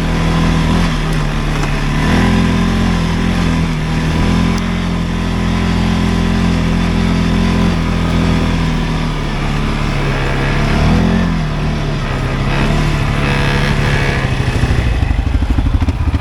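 CFMoto ATV engine running steadily, with brief rises in revs about two seconds in and again past the middle. Near the end the note settles into an even pulsing.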